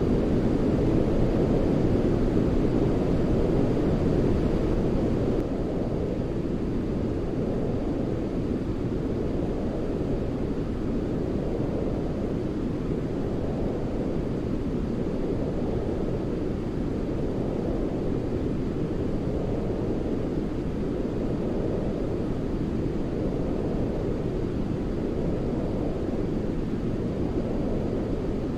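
Steady, low, rushing sleep noise weighted toward the bass, like brown noise or an aircraft cabin's rumble, with slow gentle swells. It steps down slightly in loudness about five seconds in.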